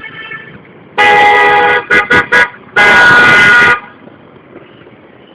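Vehicle horn honking loudly: a long blast, three quick short toots, then another long blast, over low street traffic noise.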